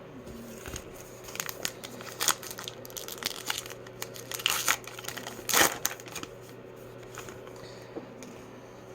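Crinkling and tearing of a trading-card pack wrapper being ripped open, in a run of irregular crackles with the loudest rip about five and a half seconds in.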